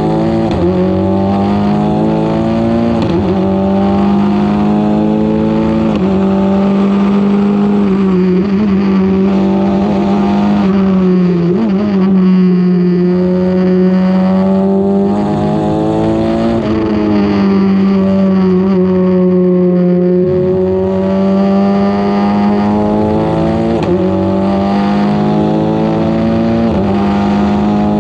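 Formula 4 race car engine running hard at high revs on track. The pitch climbs and sags with the throttle and steps abruptly at each gear change, several times.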